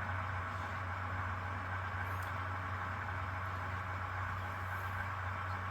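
H0 scale model ES44AC diesel locomotive's sound decoder playing a steady diesel engine idle through the model's small onboard speaker.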